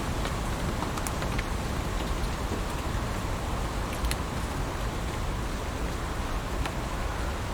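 Heavy rain falling steadily: a dense, even hiss with scattered sharp ticks of individual drops striking close by.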